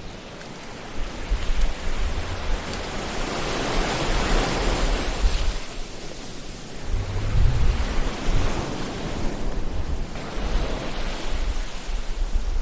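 Ocean waves washing on a shore, the surf swelling and receding in slow surges, one peaking about four seconds in and another with a deep rumble a few seconds later.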